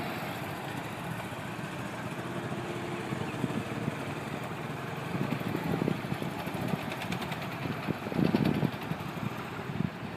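Motorcycle engine running, with louder surges about five, eight and ten seconds in.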